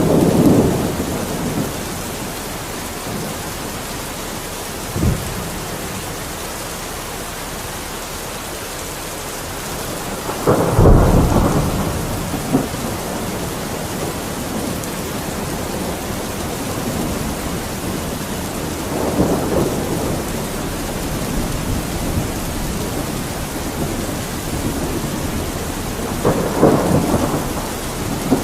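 Steady rain hiss. Every several seconds a louder, deeper swell rises and fades over a second or two, the strongest about eleven seconds in, with a single short thud around five seconds in.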